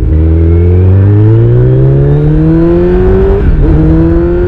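Kawasaki Z900's inline-four engine through an Akrapovic exhaust with its dB killer in, accelerating with its pitch rising steadily. About three and a half seconds in the revs drop for an upshift and climb again, with another shift right at the end.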